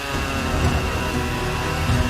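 Husqvarna 545 Mark II two-stroke chainsaw held at full throttle, cutting through a pine trunk: a steady, high engine note over the noise of the chain in the wood, with background music underneath.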